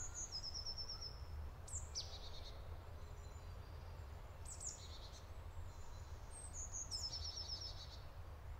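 Small songbirds calling with short high chirps and quick trills, the same brief phrase coming back several times, over a faint steady low rumble.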